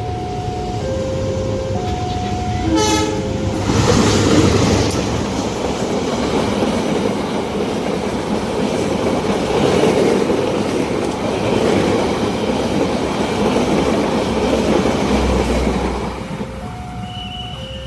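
Level-crossing warning alarm sounding two alternating tones, cut across about three seconds in by a short train horn blast. A train then passes at speed with loud rushing rail noise for about twelve seconds, and the alarm tones are heard again near the end as the train clears.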